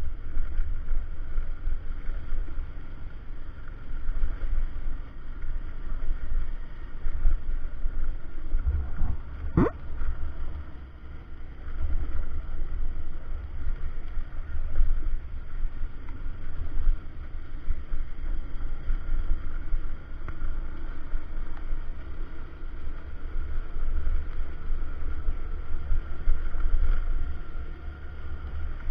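Motorcycle riding on a rough road: wind buffeting the microphone in a heavy low rumble over the engine running steadily, with one sharp knock about ten seconds in.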